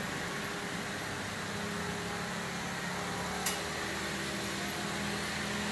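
Car engine running at low speed as the sedan creeps into a parking space, a steady hum, with one sharp click about three and a half seconds in.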